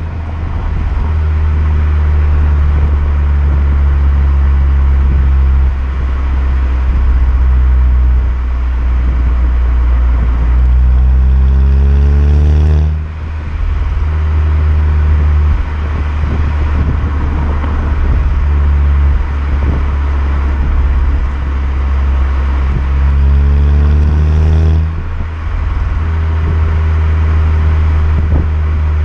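Unmodified VW Golf 6 GTI's 2.0 TSI turbo four-cylinder engine and exhaust while driving, with a steady deep rumble underneath. Twice the engine note climbs in pitch under acceleration and then breaks off with a sudden drop in level, about 13 seconds in and about 25 seconds in, as for an upshift.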